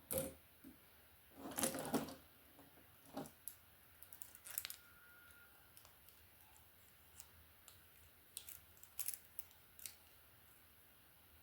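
Faint, scattered clicks and taps with short scratchy swishes, typical of hair-brushing ASMR: a brush drawn through hair and the brush and tools being handled. The loudest is a longer swish about a second and a half in.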